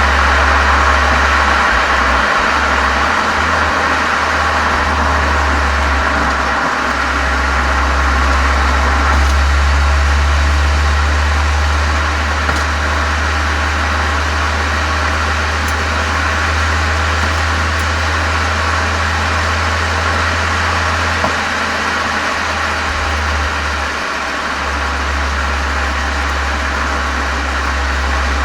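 Exhaust of a Volkswagen Golf 7 GTI's turbocharged 2.0-litre four-cylinder through an aftermarket Cox muffler and chamber, running steadily with a deep, even note and a hiss above it, picked up by a microphone outside at the rear of the car.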